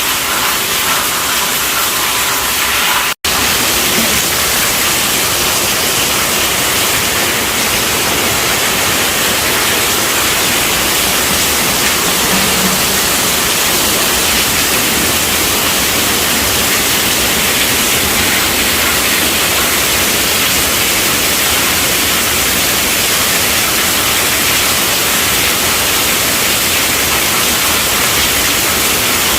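Heavy rain pattering on a tent roof: a loud, steady, dense hiss. It cuts out completely for an instant about three seconds in.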